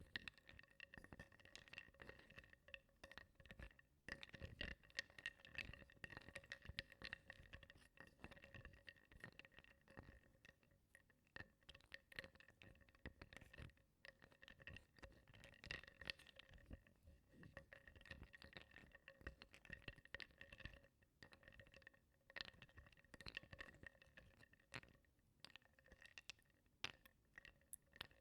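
Small wooden blocks being stirred in water in a bowl: soft, continuous knocking and clicking of wood against wood and the bowl, with light water sloshing, over a faint steady tone.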